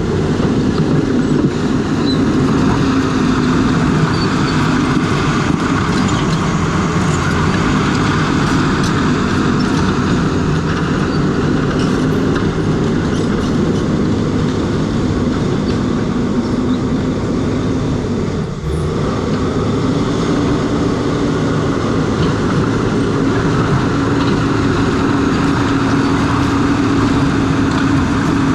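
A crawler bulldozer's diesel engine runs steadily under load while its steel tracks clatter. The sound drops briefly about two-thirds of the way through.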